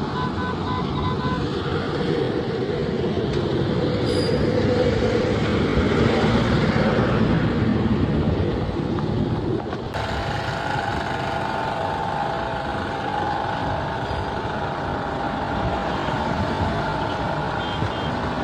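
Road traffic noise: vehicle engines and tyres, swelling louder for a few seconds in the middle as a heavy vehicle passes. A quick series of short beeps near the start.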